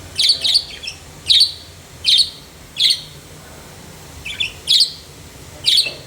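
Budgerigar chirping: a series of short, sharp high chirps, some in quick pairs, coming every half second to a second or so.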